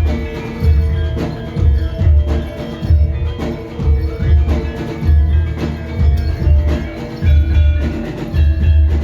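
Javanese gamelan music: ringing metal mallet instruments playing a steady melody over a deep drum beat that repeats about once or twice a second.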